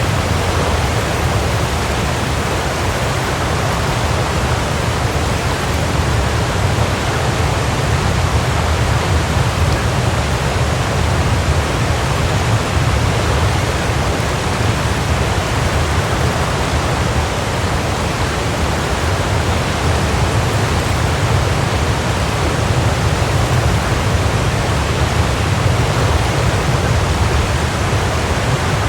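Waterfall: a steady, full rush of falling water, strongest in the low rumble, without change.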